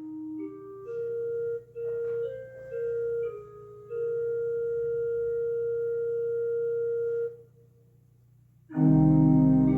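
Organ playing a slow melody of single held notes, one long note lasting about three seconds, then a brief pause before full chords come in near the end.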